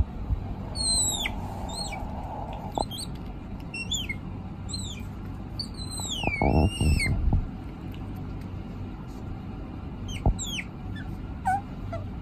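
High, thin bird peeps, each sliding down in pitch, repeated a dozen or so times, with one longer wavering call about six seconds in. A low rustling bump about midway and a few clicks sound over a steady background hiss.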